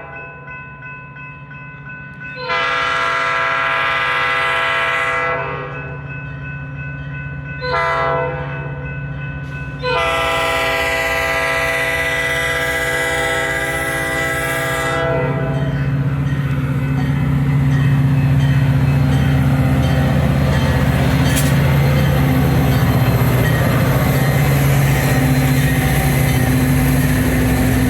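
A diesel train's multi-tone air horn sounds a long blast, a short one and another long one. This completes the grade-crossing pattern, whose first long blast comes just before. From about halfway through, the train passes close by with a steady low engine drone and the loud rumble of its wheels on the rails.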